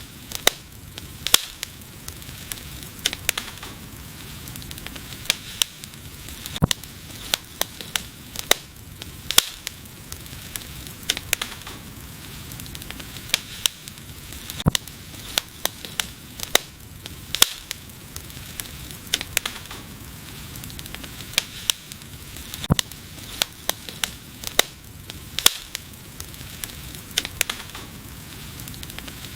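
Wood fire burning: a steady low hiss with frequent sharp, irregular crackles and pops from the burning logs.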